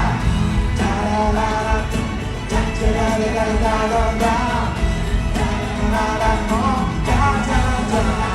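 Live pop concert music in a stadium: a band playing with a sung melody carried over it.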